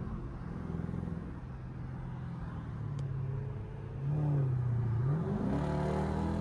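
Straight-piped Dodge Durango exhaust rumbling at low revs in traffic. About four seconds in it gets louder, and about five seconds in it revs up with a rising pitch.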